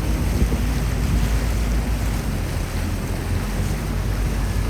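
Venetian water taxi's motor running steadily under way, with water rushing past the hull and wind buffeting the microphone.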